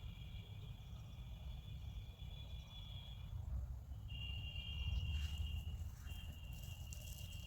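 Insects, cricket-like, trilling in a continuous high-pitched drone that breaks off for about a second midway and then resumes, over a steady low rumble with a few faint clicks near the end.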